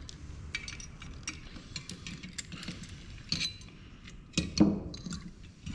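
Small metal and plastic printer parts and hand tools clicking and clinking as they are handled during disassembly, with a louder clatter about four and a half seconds in.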